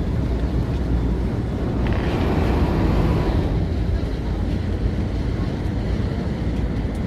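River ferry's engine running steadily under way, a continuous low rumble. A louder rush of noise swells about two seconds in and fades again by about four seconds.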